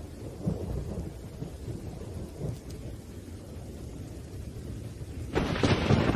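Thunderstorm: low rumbling thunder over steady rain, then a sudden loud crack of nearby thunder near the end.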